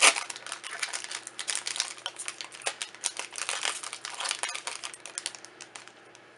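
Foil booster pack wrapper crinkling as it is handled, a dense run of small crackles that tails off near the end.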